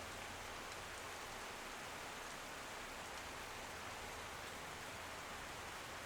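Steady rain falling, an even hiss of drops with a few faint ticks of single drops.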